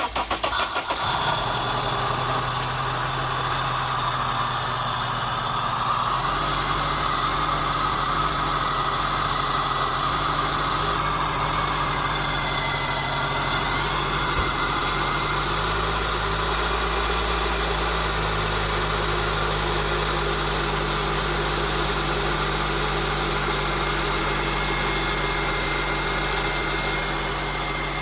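2002 Honda CR-V's 2.4-litre four-cylinder engine cranked and catching, then running steadily at idle just after its throttle body and idle air control valve were cleaned. The idle speed steps up or down about six seconds in and again near the middle.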